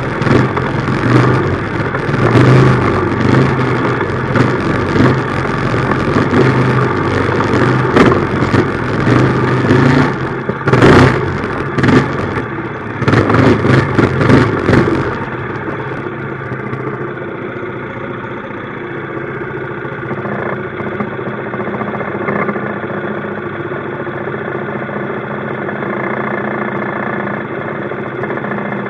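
Minibike engine running under way, with a noisy rush and several loud bursts between about ten and fifteen seconds in. About halfway through it drops to a quieter, steady idle.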